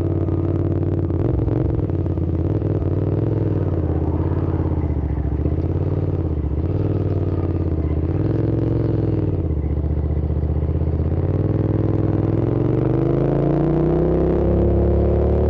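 Hyosung GT650 V-twin motorcycle engine running on the road. Its engine speed rises and falls a few times, then climbs steadily through the last few seconds as the bike accelerates.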